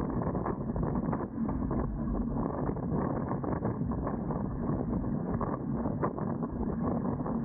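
Wind buffeting the microphone on a Dart 18 sailing catamaran under way, with water noise and scattered small knocks and ticks from the boat.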